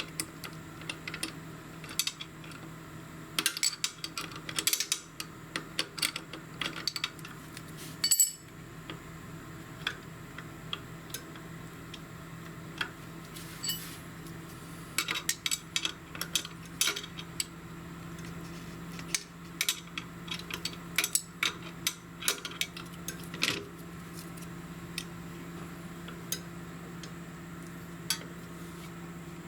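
Irregular metallic clicks and clinks of a wrench on the motorcycle's rear brake pedal adjuster while a lock nut is worked loose, over a steady low hum.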